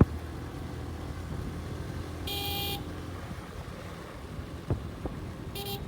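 Motorcycle running along the road with a steady low rumble, and a horn beeping twice: a half-second beep about two seconds in and a shorter one near the end.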